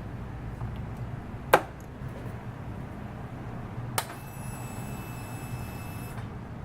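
Two sharp clicks over a steady low hum, the first the louder; the second click, about four seconds in, is followed by a steady high electronic tone lasting about two seconds before it cuts off.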